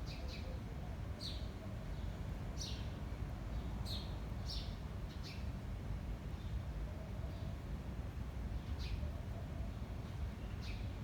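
Small birds chirping in short, high notes, about one a second through the first half and more sparsely later, over a steady low rumble of wind on the microphone.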